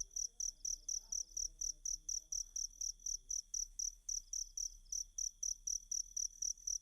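Field cricket (jangkrik) chirping in a fast, even train of short, high-pitched chirps, about five a second.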